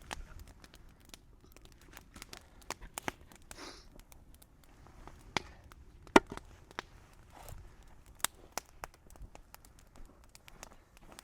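Bonfire of cut brush and small trees crackling, with irregular sharp pops scattered through, the loudest about six seconds in.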